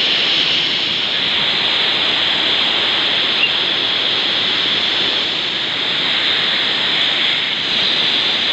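Waterfall: falling water rushing in a steady, loud hiss.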